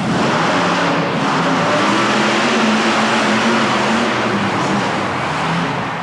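Monster truck engines running hard at full throttle through a race, a loud, dense engine noise whose pitch wavers and eases off slightly near the end.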